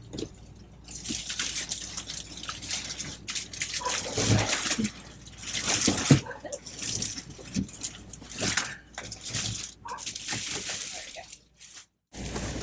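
Sailcloth of a jib being pulled out and handled: irregular bursts of rustling and crinkling with a few light knocks. It stops suddenly near the end.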